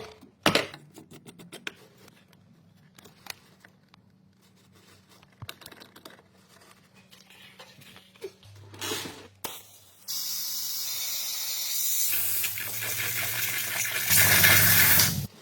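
Aerosol spray can spraying in one long steady hiss for about five seconds, louder toward the end, then cutting off sharply. A few faint clicks and handling knocks come before it.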